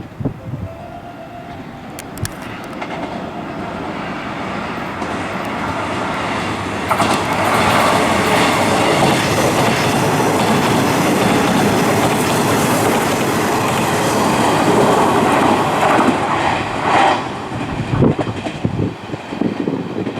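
Electric train passing close by: the sound builds over several seconds, stays loud for about ten seconds as the cars go past, then dies away quickly.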